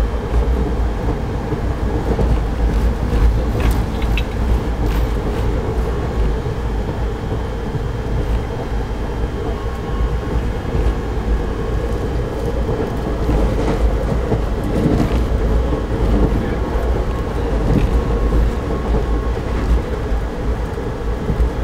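Indian passenger train running along the line: a steady rumble of the moving carriage and wheels on the rails, with a few scattered clicks.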